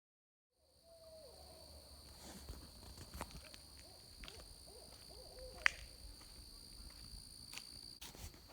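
An owl hooting several times, low and soft, over a steady high-pitched tone, with scattered sharp clicks, one louder about five and a half seconds in.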